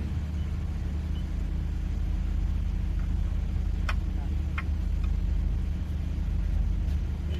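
A steady low engine drone from running machinery, with two sharp metallic clinks a little over half a second apart near the middle.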